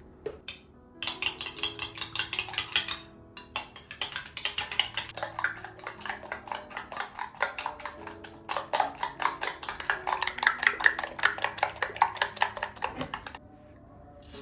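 A metal utensil beating fast in a bowl, a quick, even run of clinks as a mixture is whisked, pausing briefly once, over soft background music.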